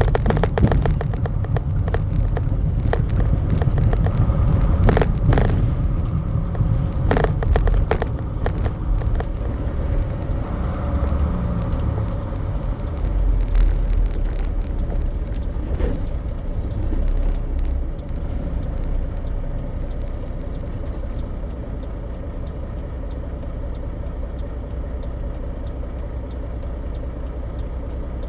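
Semi truck driving, heard from inside the cab: steady low engine and road rumble with scattered rattles and knocks in the first half. It eases to a steadier, slightly quieter run in the second half.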